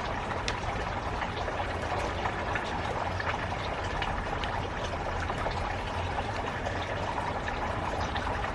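Steady running or splashing water, with small scattered ticks.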